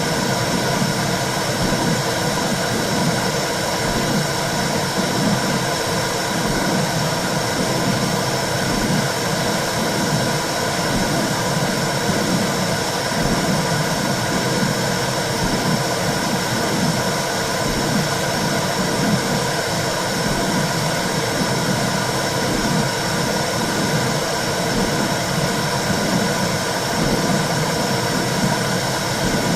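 Womb sound for soothing a baby: a steady, loud whooshing noise with a slow rhythmic throb about once a second.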